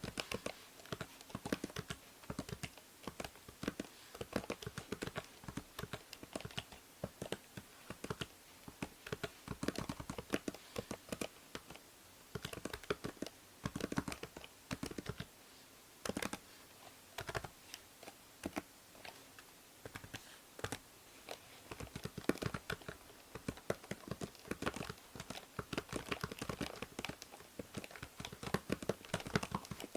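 Computer keyboard typing, a continuous irregular run of key clicks, recorded close on a binaural microphone with a faint background hiss.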